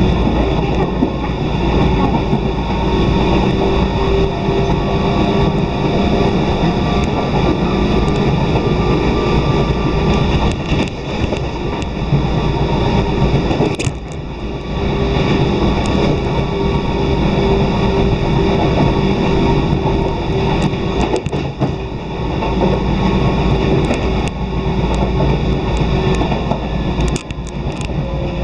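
Electric train of the Toyama Chiho Railway Main Line running along the line, heard from inside the passenger car: a steady rumble of wheels on rail with a low hum and scattered clicks, dipping briefly about halfway through.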